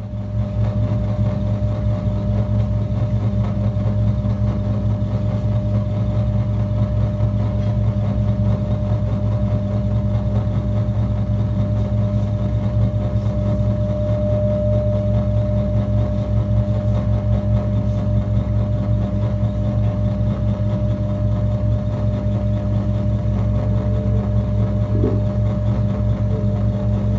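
Electroacoustic drone music: a dense, steady low drone with rapid even pulsing, much like an idling engine, and a thin steady tone above it. Fainter higher tones come in near the end.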